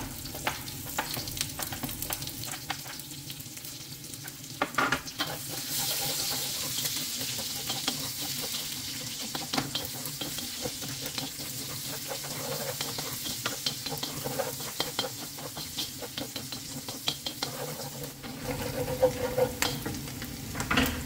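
Diced onion sizzling in hot oil in a wok, stirred with a wooden spatula that scrapes and clicks against the pan. The sizzle grows louder about five seconds in.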